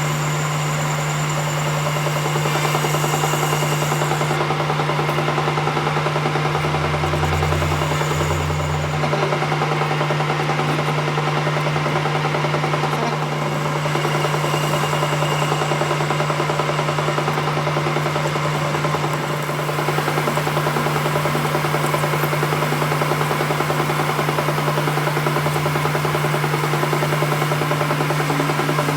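Workshop machine running steadily with a constant low hum and dense mechanical noise, a deeper hum briefly joining about seven seconds in and again near the end.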